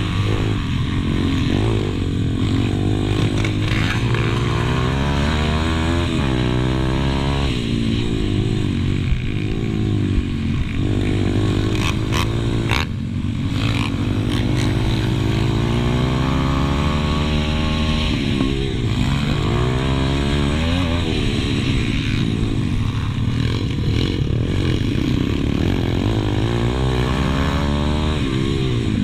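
Pit bike's single-cylinder four-stroke engine, close to an on-board camera, revving up and falling off again and again as it is raced around the track. There are a few short knocks about halfway through.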